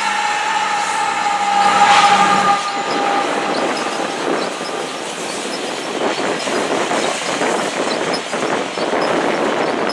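CN freight train passing close by. A high, steady whine with the locomotives, loudest about two seconds in, stops after about two and a half seconds. It gives way to the potash covered hopper cars rolling past, their wheels rumbling and clacking over the rail joints.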